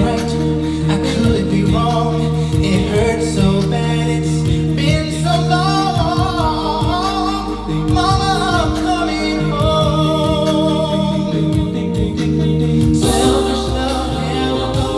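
A group of singers performing a song, with melody lines rising and falling over steady sustained low notes. The sound grows fuller and brighter about two seconds before the end.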